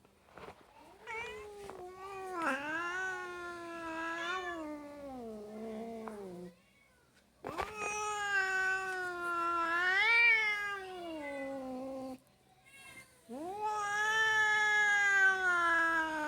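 Cats yowling back and forth in three long, drawn-out calls, each lasting several seconds, with a wavering pitch that rises and then sinks at the end.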